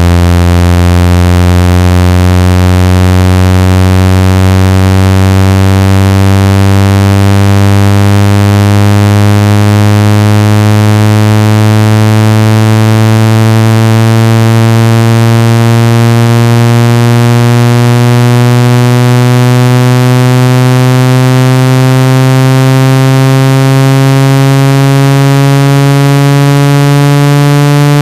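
Loud, buzzy synthetic low tone whose pitch climbs slowly and steadily: a phone speaker water-ejection tone, played to vibrate trapped water out of the speaker.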